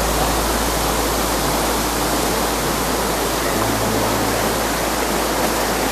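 Waterfall pouring with a steady, even rush of water close by.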